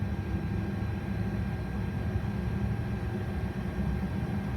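Boeing 737 jet engines running, heard inside the cockpit: a steady low rumble and hum with a thin high tone, as engine 1 accelerates after light-off toward idle while engine 2 already idles.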